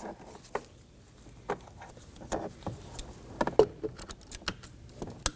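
Plastic wiring-harness connectors being handled and plugged into the door switch pad: a series of small plastic clicks and knocks, the sharpest click near the end.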